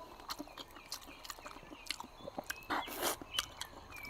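A person chewing and biting into braised pig trotter, with scattered soft wet clicks and smacks.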